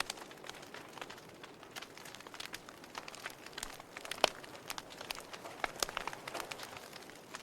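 Wood fire crackling in a fireplace: a steady stream of irregular small pops and snaps over a soft hiss, with one sharper pop about four seconds in.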